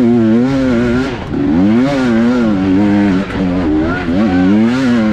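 Motocross bike engine revving hard under racing throttle, its pitch wavering up and down, dropping briefly and climbing again about a second in and once more just past three seconds.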